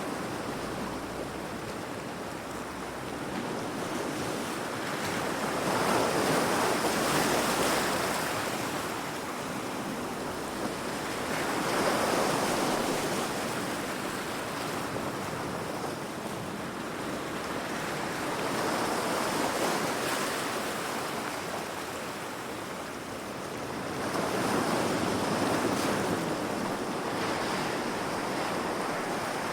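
Heavy ocean waves crashing against rocks: a continuous rushing surf that swells into a louder crash about every six seconds and ebbs between, with wind.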